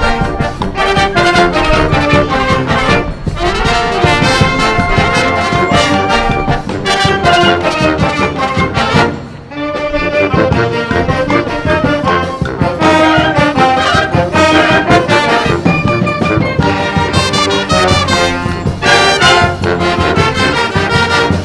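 A wind band plays a brass-led São João (junino) arrangement, with trombones and trumpets over drums. The music drops out briefly about halfway through, then comes back in full.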